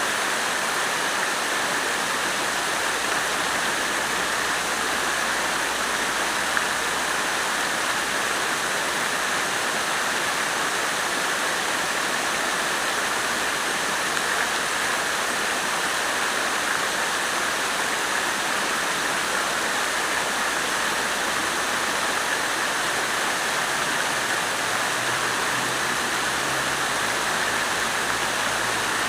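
Water fountain splashing steadily, an even rush of falling water.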